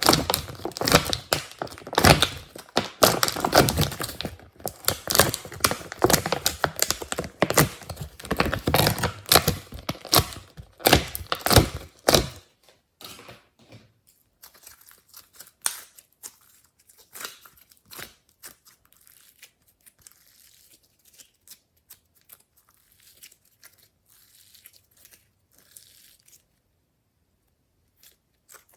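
Glossy slime being worked and mixed by hand, giving dense sticky clicks and pops for about twelve seconds, then only faint, scattered clicks that stop a couple of seconds before the end.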